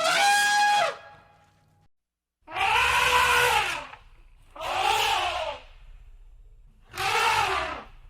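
Elephants trumpeting: four loud, brassy blasts of about a second each, separated by short gaps, the first followed by a thin fading tone.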